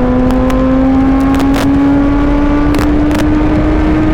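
Suzuki GSX-R750's inline-four engine pulling steadily under way, its pitch rising slowly and evenly as the bike gains speed. A steady rushing of wind is heard under it, with a few short clicks.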